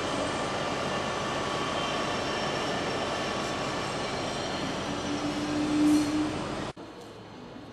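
Train running noise: a steady rush of rail noise with faint steady whining tones, swelling a little louder before cutting off abruptly about two-thirds of the way in, leaving a quieter background.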